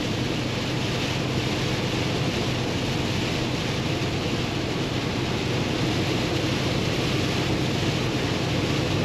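Steady in-cab noise of a Kenworth T680 semi truck cruising in the rain: the PACCAR MX-13 diesel's low, even drone under a constant hiss of tyres on the wet road.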